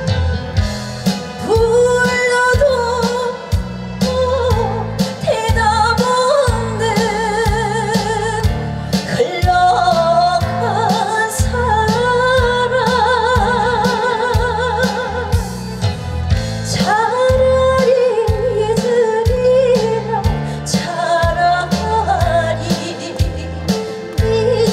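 A woman singing a trot song with wide vibrato over instrumental backing with a steady drum beat.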